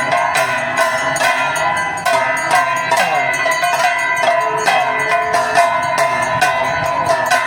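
Hindu aarti bells and metal percussion clanging in a steady rhythm, about four strikes a second, each ringing on.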